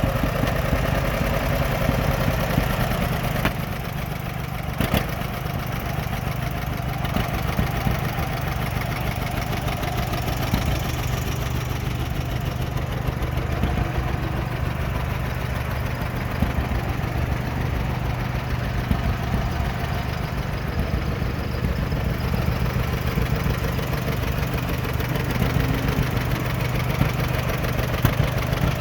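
1953 John Deere 50 tractor's two-cylinder engine idling steadily.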